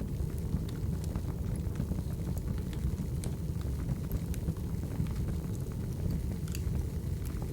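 Wood fire burning: a steady low rumble of flames with scattered sharp crackles and pops from the burning wood.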